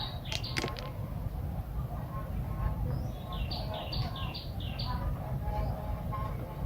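High chirping calls, a quick run of about five hooked notes a little past the middle, over a steady low rumble, with a few sharp clicks about half a second in.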